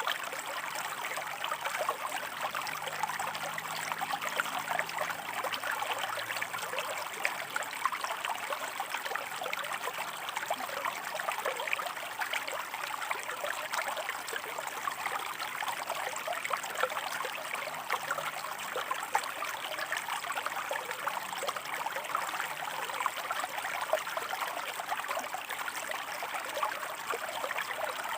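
Shallow stream running and burbling over rocks: a steady, even rush of water with constant small splashes and trickles.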